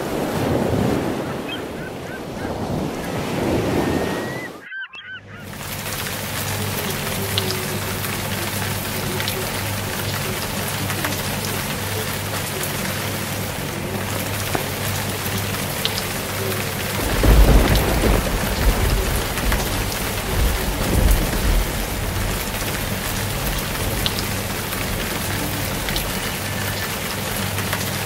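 Heavy rain pouring steadily, with a deep rumble of thunder rolling through from about 17 to 21 seconds in.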